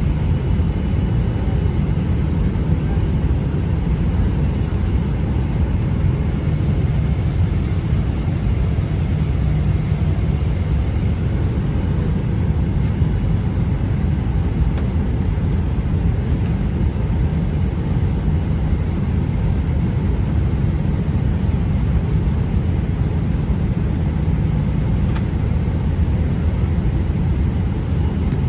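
Steady low rumble of a Boeing 777-300ER airliner heard from inside the cabin: engine and airflow noise, even and unchanging.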